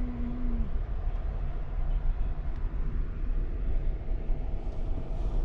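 Steady low rumble of a moving Amtrak passenger train heard from inside the car: wheels running on the rails and the carriage noise. A short wavering tone fades out under a second in.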